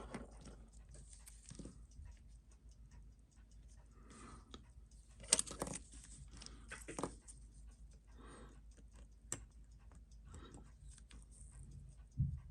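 Faint scattered clicks and taps of small metal watch parts and tools being handled on a watchmaker's bench, with a louder knock about five and a half seconds in and another near seven seconds.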